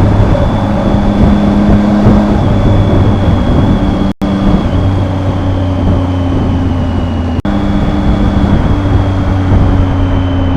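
Triumph motorcycle engine running under way, its low note holding steady and then stepping to a new pitch, with a faint high whine slowly falling above it. The sound drops out completely for an instant twice, a little before halfway and again about two-thirds through.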